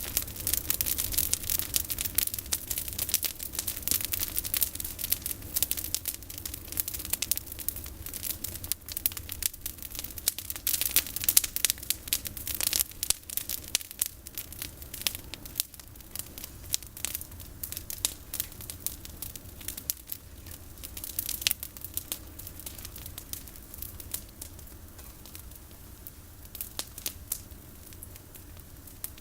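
Campfire of olive branches burning, crackling with many sharp irregular pops and snaps. The crackling is busy for most of the time and grows sparser near the end.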